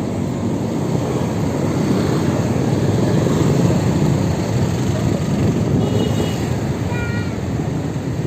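Steady rushing wind and road noise from a moving electric motorbike ride, with two short high tones about six and seven seconds in.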